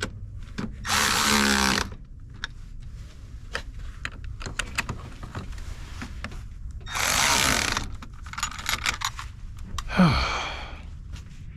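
Cordless power tool, such as a drill or impact driver, running in two bursts of about a second each while driving 10 mm bolts home on an alternator installation. Light clicks and clatter of tools come between the bursts, and a short, loud sound falling in pitch comes near the end.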